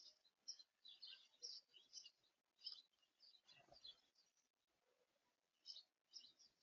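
Faint, quick chirps and twitters of small songbirds: many short high notes, thick in the first few seconds, sparse in the middle, and picking up again near the end. A soft low bump comes a little past halfway.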